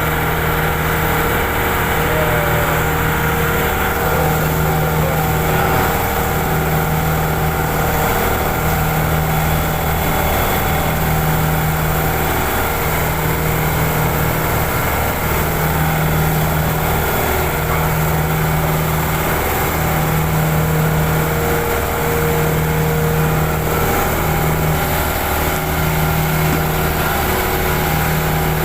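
Mycom refrigeration compressor running steadily on a test run of a boat's fish freezer, with a low hum that swells and drops every second or two.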